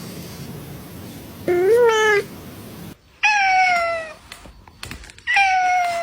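Three cat meows: a short one rising then falling about one and a half seconds in, a higher falling meow a little after three seconds, and a long, steady meow near the end.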